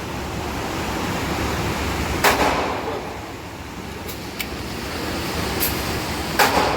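Two gunshots at a shooting range, about four seconds apart, each a sharp report with a short echo, over a steady rushing noise; a few lighter clicks fall between them.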